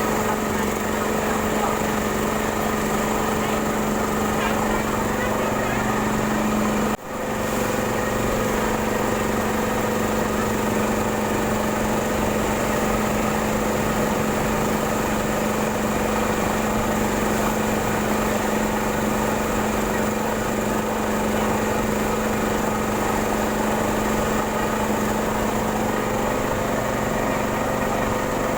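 A boat's small motor running steadily at an even pitch, with a brief dropout about seven seconds in.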